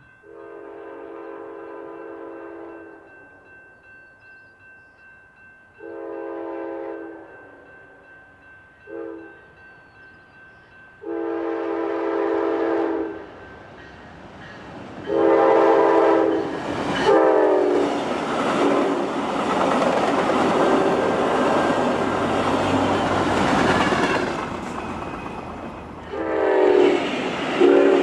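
Passenger train locomotive horn sounding the grade-crossing signal of two long blasts, a short and a long. The last long blast drops in pitch as the train passes. The passing train's rumble and rail noise follow, and a further horn blast with falling pitch comes near the end.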